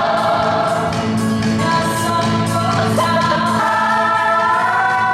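Choral music: many voices singing long-held notes together over sustained low notes.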